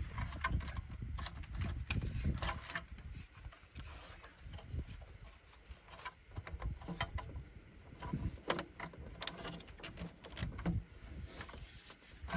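Irregular clicks, clinks and knocks of hand tools and metal parts being handled while unbolting components in a car's engine bay, over a low rumble of handling noise.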